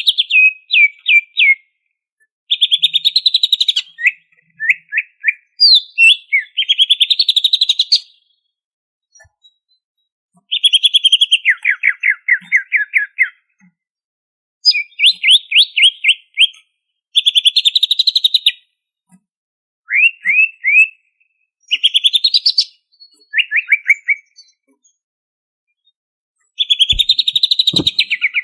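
Greater green leafbird (cucak ijo) singing in loud, rapid phrases of trills and quick sweeping whistled notes, each phrase lasting one to three seconds with short pauses between, the song full of mimicked fill-in phrases (isian).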